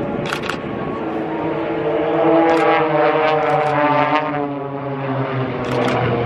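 Propeller aircraft flying past during an air display, its engine and propeller tone shifting in pitch as it passes.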